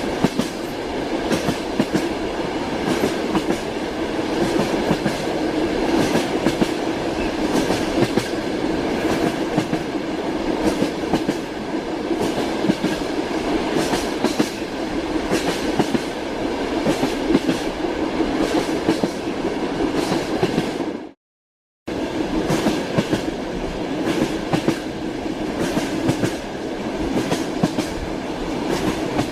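Train wheels clattering over the rail joints, heard from inside a moving railway carriage, over a steady rumble. The sound cuts out completely for under a second about two-thirds of the way through, then resumes.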